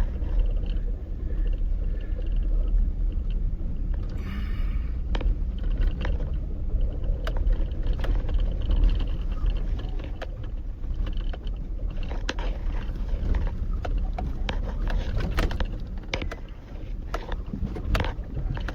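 Vehicle driving over a rough, bumpy dirt track, heard from inside: a steady low rumble of engine and tyres, with frequent knocks and rattles as it bounces.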